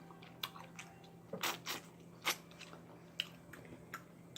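Close-miked chewing and biting of KFC fried chicken: a string of short, crisp crunches and wet mouth sounds, most of them about a second and a half to two and a half seconds in.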